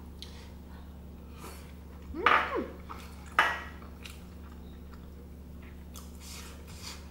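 Close-up chewing of Korean blood sausage (soondae) in spicy rice-cake sauce: soft wet mouth clicks and smacks, a louder squishy mouth sound about two seconds in and a sharp click about a second after it, over a steady low hum.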